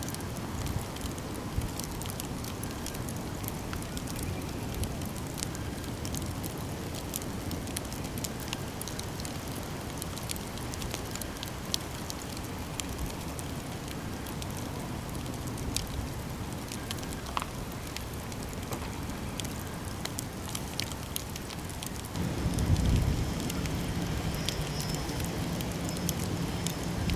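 Campfire burning, with a steady low rush and frequent sharp crackles and pops from the burning wood. A louder low rumble comes in near the end.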